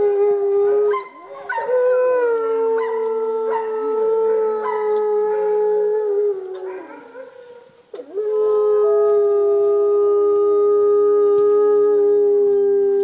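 Wolves howling in chorus: several long, held howls at different pitches overlap. They fade out about six seconds in and start again together about eight seconds in.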